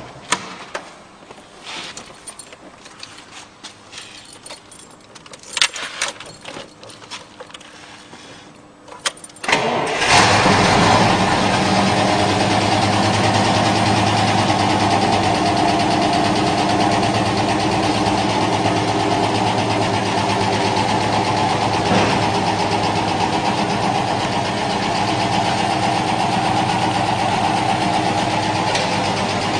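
GAZ-24-34 Volga's V8 engine starting about ten seconds in, after some scattered clicks and knocks, then idling steadily.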